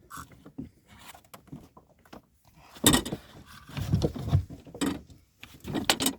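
Irregular knocks and thuds on a fishing boat, with a cluster of heavier bangs from about three seconds in.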